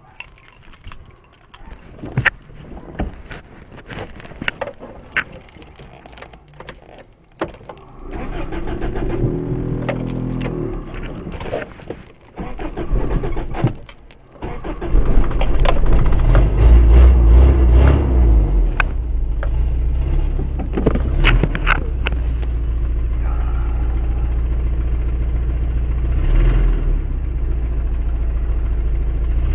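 Sharp clicks and knocks, then a vehicle engine starting about eight seconds in and settling into a loud, steady running from about halfway through.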